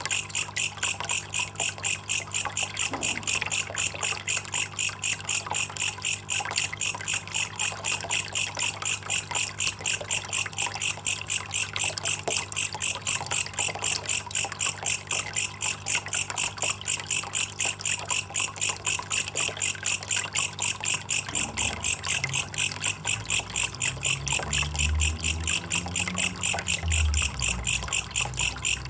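Belalang kecek katydid calling in a fast, even train of high pulses that never lets up, over faint trickling water and a steady low hum. An uneven low rumble swells in about three quarters of the way through.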